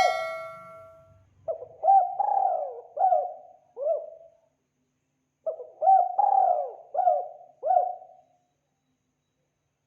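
Spotted dove (tekukur) cooing: two phrases of about four arching coo notes each, a few seconds apart, after a ringing tone fades out at the start.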